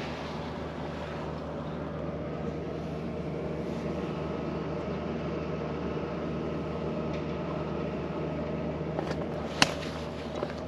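A steady mechanical hum with a few constant tones, broken by one sharp click near the end.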